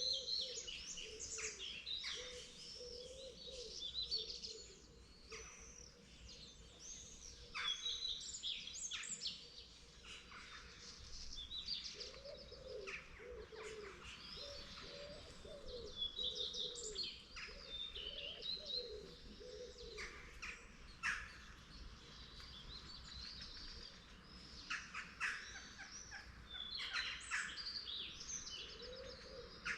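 Morning chorus of several songbirds singing at once: overlapping high chirps and warbled phrases, with a lower, wavering call heard now and then.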